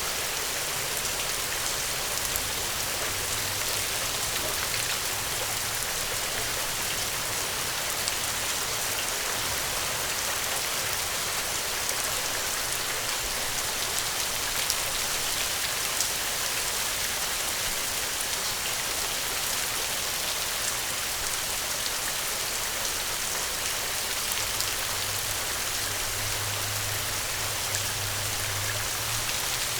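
Steady, dense rainfall: an even hiss of rain on a surface with scattered individual drops.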